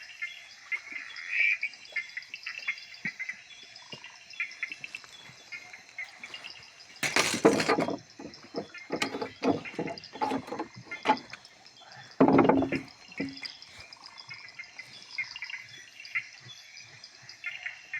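Night chorus of frogs and insects in the Amazon rainforest, a steady high trilling throughout. Two loud close noises of about a second each break in, a third of the way through and again past the middle, with scattered knocks between them.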